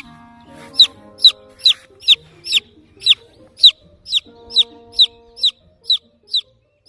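Baby chick peeping over and over: loud, high, falling peeps about twice a second, starting just under a second in. These are a lone chick's calls for its mother hen.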